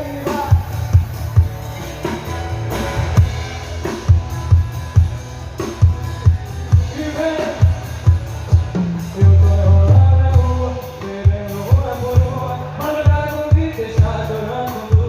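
Live sertanejo band playing an instrumental passage between sung lines: kick drum on a steady beat under bass and melodic instruments, with a long held low note about two-thirds of the way through.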